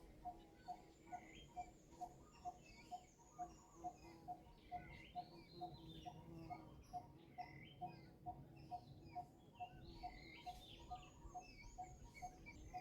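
Faint outdoor birdsong: scattered high chirps and trills over a steady, evenly repeated single low note, a little over two notes a second.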